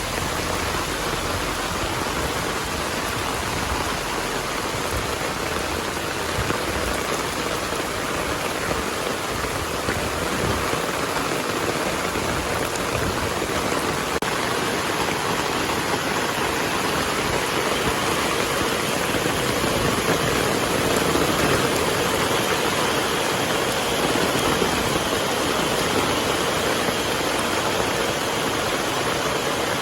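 Heavy rain pouring down steadily as one dense, even hiss, growing a little louder past the middle.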